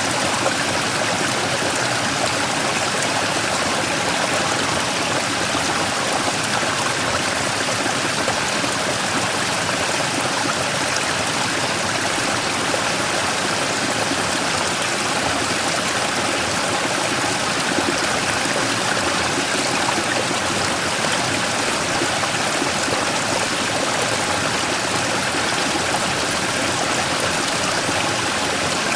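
Mountain stream flowing and splashing over a large rock in a small waterfall, a steady rushing of water.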